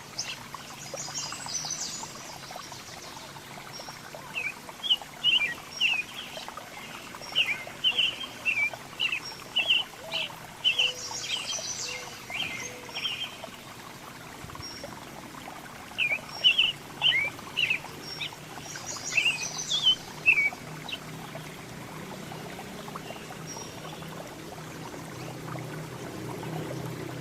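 Small songbirds chirping and calling in quick runs of short notes, with some higher buzzy notes, in two bouts separated by a pause of a few seconds, over a steady background hiss.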